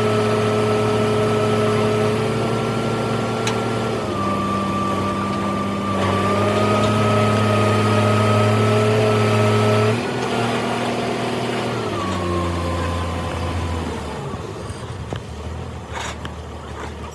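An engine running at steady speeds. Its pitch steps down about four seconds in, rises again, then drops twice more before the sound fades away near the end.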